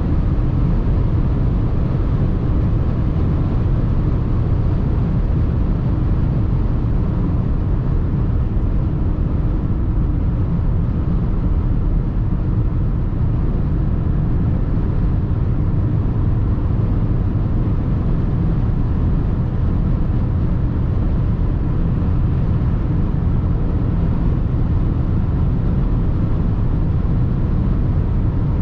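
Mercedes GLA 220d 4MATIC driving at a steady speed: a steady low rumble of road and wind noise that does not rise or fall.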